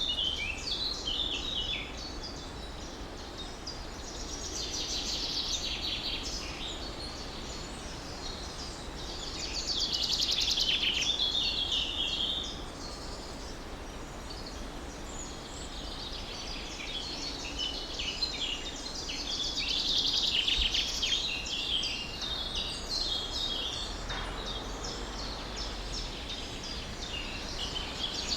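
Several songbirds chirping and trilling at once, the chorus swelling and fading every few seconds, over a faint steady low rumble.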